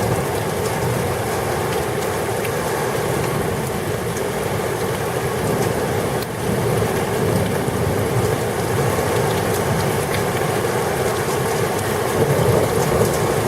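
Heavy thunderstorm rain pouring down, a loud steady wash of noise.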